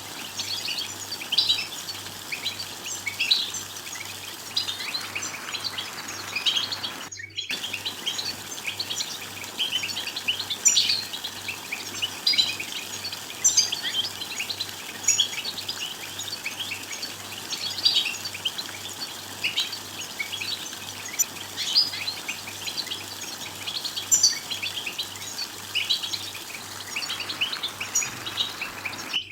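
European goldfinches twittering: a dense run of quick, high chirping calls, the 'bitbita' call used to stir a male into song. The chirping breaks off for a moment about seven seconds in.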